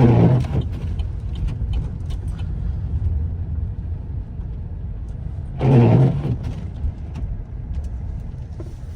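In-cab road and engine rumble of a 2017 Chevy Silverado pickup driving on a snow-covered road. Two brief, louder bursts of noise break in, one at the start and one about six seconds in.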